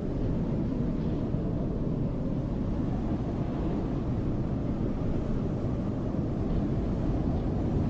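Snowstorm wind blowing steadily as a deep, even rumble, with no gusts or breaks.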